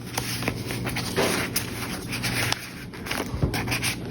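Paper pages and card of a handmade junk journal being handled and turned: rustling with scattered light clicks and taps.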